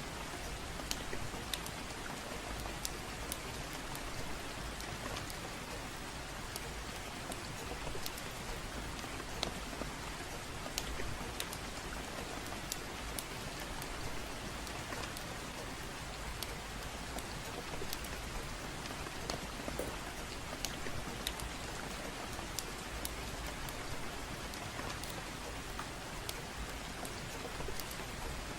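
Steady gentle rain falling, with scattered sharp pops and crackles of a wood fire in a fireplace.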